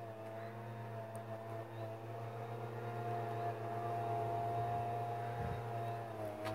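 Small engine of a pesticide sprayer, used for spraying hazelnut trees, running steadily, its pitch lifting a little about three seconds in and dropping back near the end.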